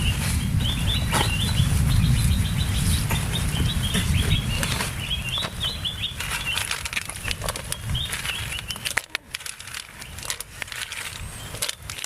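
A bird chirping in quick, short repeated phrases over a low rumbling noise; the rumble fades about nine seconds in, leaving a few faint clicks.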